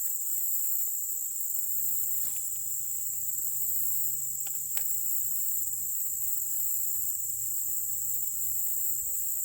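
Steady high-pitched chorus of insects, with a few faint clicks a couple of seconds in and a faint low hum underneath.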